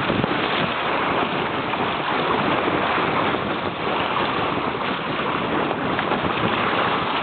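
Steady rush of wind buffeting the microphone and sea water aboard a sailboat under way in rough conditions.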